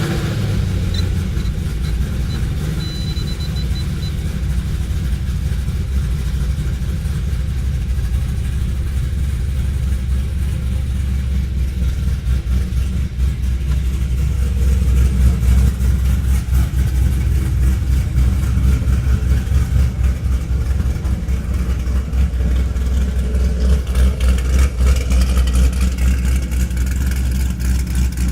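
Cammed 2015 Camaro 1LE's 6.2-litre LS3 V8 with full bolt-ons, idling just after a cold start: a steady low exhaust rumble that turns choppier and more uneven from about halfway through.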